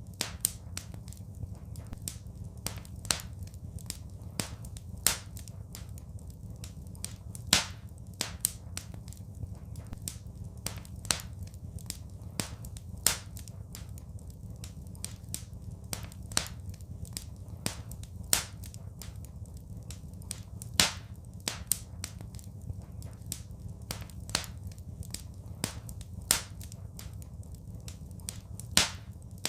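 Wood fire in a fireplace crackling: irregular sharp pops and snaps, a few louder ones every couple of seconds, over a steady low rumble of the burning.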